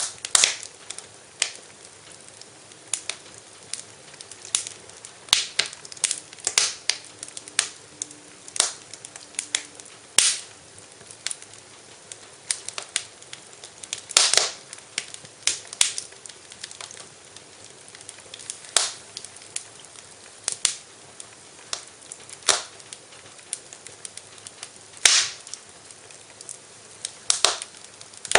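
Wood fire burning in a fireplace, crackling with irregularly spaced sharp pops over a soft steady hiss.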